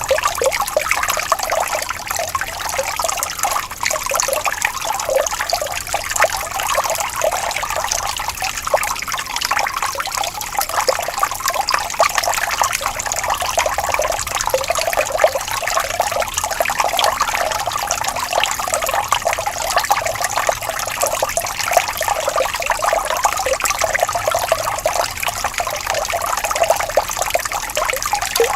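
Water flowing and trickling steadily, a continuous gentle babble with fine splashing detail, like a small forest stream.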